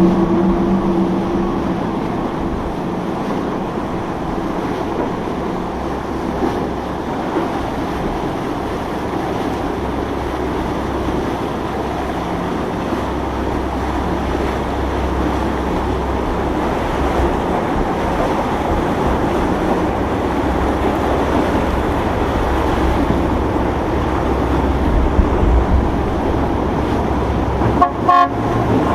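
A boat horn sounding and cutting off about a second in, followed by a steady wash of boat engine rumble, wind and water.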